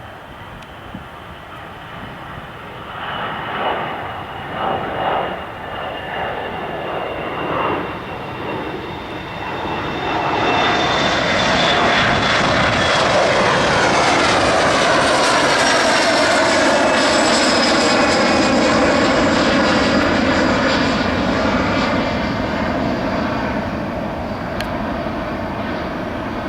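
Boeing 737-300's CFM56-3 jet engines at takeoff thrust, a loud roar that builds unevenly, swells sharply about ten seconds in, holds with sweeping tones as the jet passes, then slowly fades near the end.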